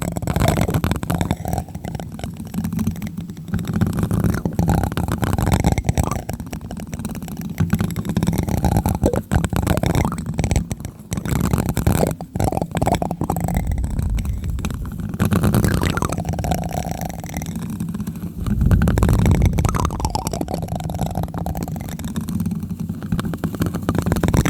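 Plastic spoon tapping and scraping right on a microphone: a continuous stream of muffled, bassy thuds mixed with scratchy rubbing.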